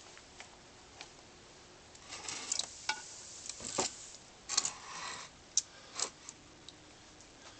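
Rustling of bonsai foliage and several sharp clicks typical of pruning shears cutting stems. The sounds come in a cluster from about two seconds in to about six seconds in.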